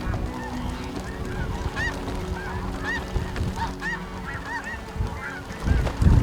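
A flock of snow geese calling, many overlapping short honks and yelps. Wind buffets the microphone, with a strong gust near the end.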